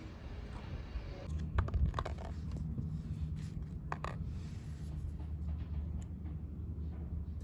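A few light clicks and knocks of things being handled, over a steady low rumble that comes in about a second in.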